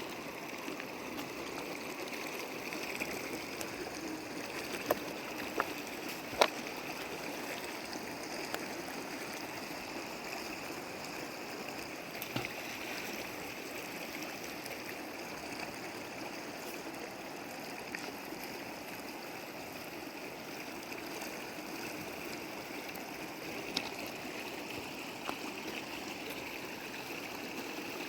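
Flowing river water rushing and gurgling steadily, with a few sharp clicks or knocks, the loudest about six seconds in.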